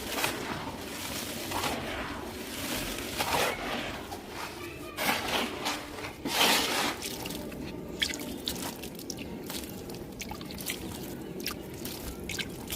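Dry, dusty crumbly material being crushed and crumbled by hand in several gritty crunching bursts, followed by a run of small sharp crackles and clicks as the fragments break and settle.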